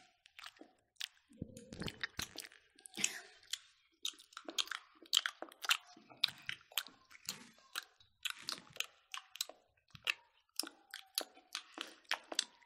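Close-miked chewing and biting by several people eating smoked pork and rice by hand: a dense, irregular run of wet mouth clicks and smacks.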